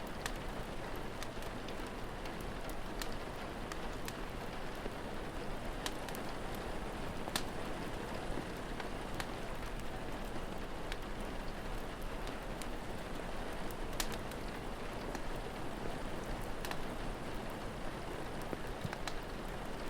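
Steady rain falling, with the sharp, irregular crackles and pops of a wood fire scattered through it, the loudest about seven and fourteen seconds in.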